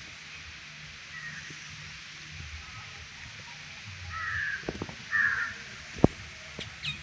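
Two harsh bird calls about a second apart over a steady hiss, then a single sharp click.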